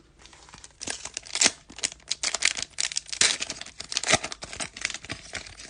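Wrapper of a baseball trading-card pack crinkling as it is torn open, with the cards being handled: irregular crackling starting about a second in.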